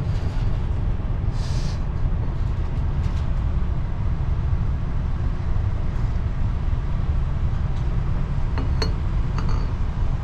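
Steady low rumble of a large car ferry underway at sea, with a brief hiss about a second and a half in and a few light clicks near the end.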